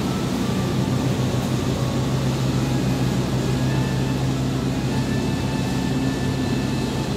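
Steady low mechanical hum from passenger trains standing idle at a station platform, unchanging throughout.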